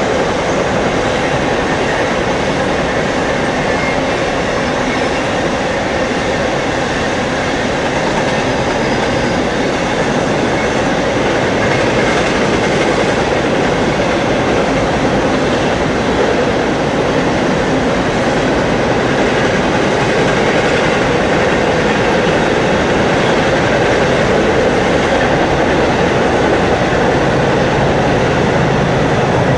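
A train's railcars rolling past on the track, a steady loud rumble with clickety-clack of wheels over rail joints. A low steady hum comes in near the end.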